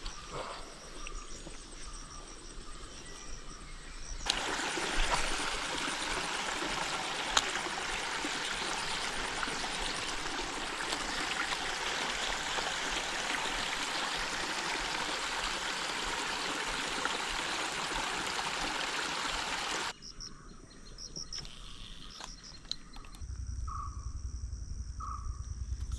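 Steady rush of flowing water that cuts in a few seconds in and cuts off abruptly about three quarters of the way through. High insect chirping can be heard on either side of it, and a low hum starts near the end.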